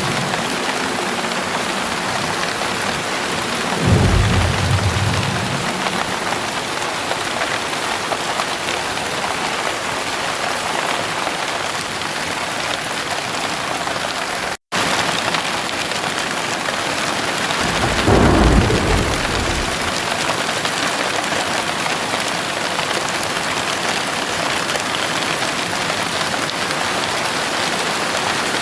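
Heavy rain pouring steadily, with two low rolls of thunder: one about four seconds in, the other a little past the middle. Just before halfway the sound cuts out for a split second.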